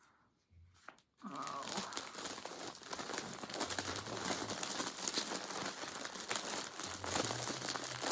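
Plastic bag crinkling continuously as skeins of yarn are handled and packed into it, starting about a second in after a brief quiet.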